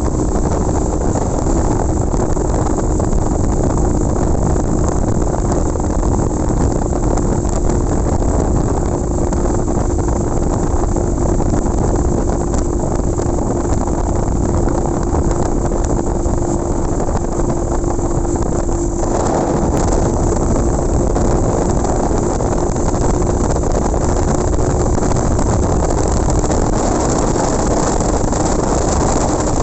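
Motorcycle running at a steady cruising speed, its engine drone carrying a steady hum under heavy wind and road noise. The noise changes character slightly about two-thirds of the way through.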